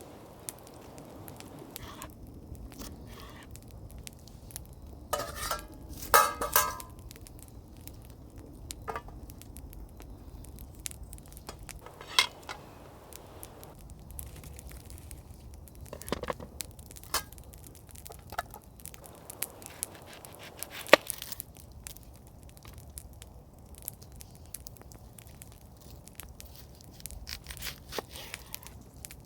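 Wood campfire crackling, with irregular sharp pops and snaps over a faint steady background; the loudest is a quick cluster of pops about six seconds in.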